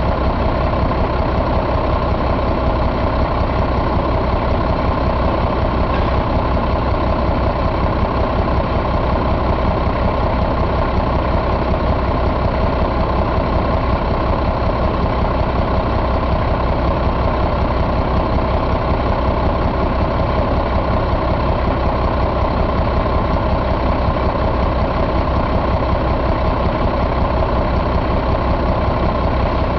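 Caterpillar C12 inline-six diesel engine idling steadily, with no change in speed.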